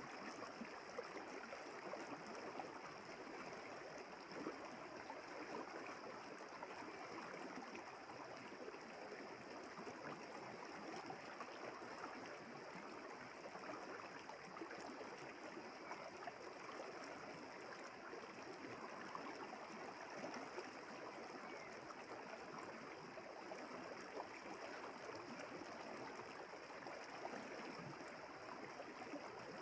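River water flowing steadily over stones: a low, continuous babbling rush with no breaks.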